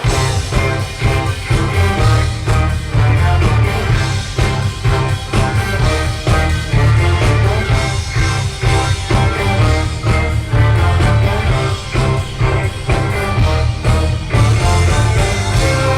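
A big band playing live: a steady drum beat over heavy bass, with horns and other instruments sounding together.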